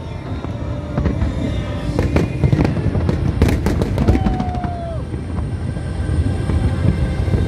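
A fireworks display going off continuously: many sharp bangs and crackles over a constant low rumble. About four seconds in, a brief held tone dips at its end.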